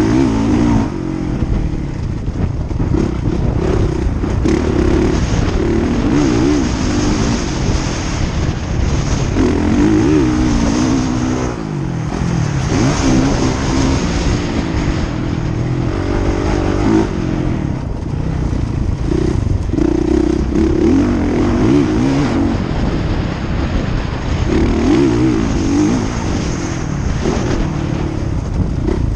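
Motocross bikes running on the track, their engines revving up and dropping back again and again as riders work the throttle.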